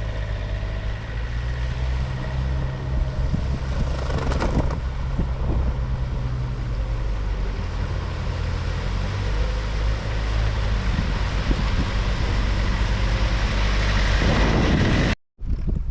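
An engine running steadily under wind noise on the microphone; its low hum shifts in pitch a few times. The sound cuts out for a moment near the end.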